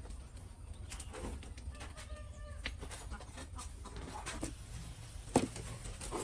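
Chickens clucking with scattered clicks and knocks over a low steady hum; one short pitched call a little after two seconds in, and a sharp knock near the end.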